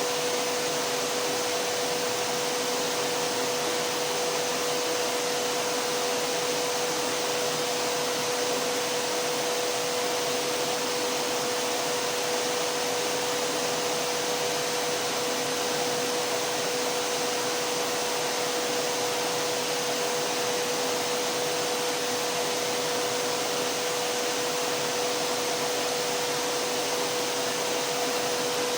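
Vacuum cleaner running steadily: a constant motor whine with one steady tone over a thick even rush of air.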